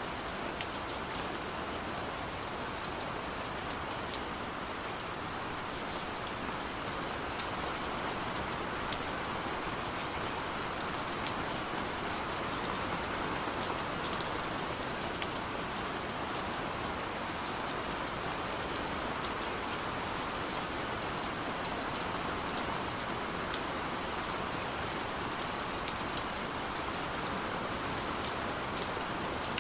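Steady gentle rain falling, a constant hiss with scattered individual drops ticking throughout.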